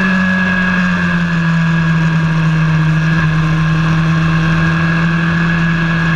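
Vehicle engine running at steady revs under a haze of road and wind noise. Its note eases down slightly at the start, then holds constant.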